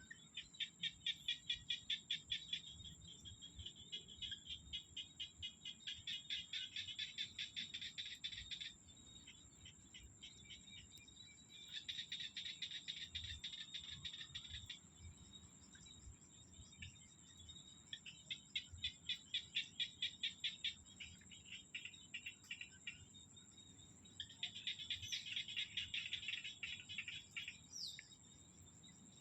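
Rice-paddy ambience: small paddy frogs calling in bouts of rapid pulsed croaks, four bouts of a few seconds each with short gaps between. Underneath runs a steady high-pitched insect trill, and a couple of brief bird whistles come near the end.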